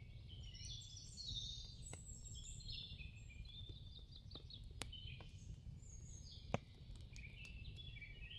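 Faint birdsong: many short chirping, twittering notes over a low steady hum, with a few sharp clicks, the loudest about six and a half seconds in.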